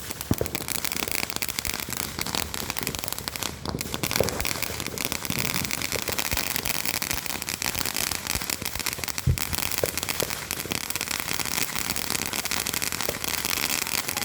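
Firework crackling without a break, a dense rapid stream of small pops with a few louder ones among them.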